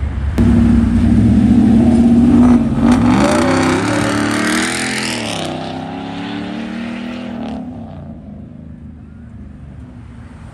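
A car's engine suddenly revving hard and held at steady revs for about two seconds, then accelerating away, its pitch climbing, dipping at a gear change and climbing again, before it fades out as the car drives off.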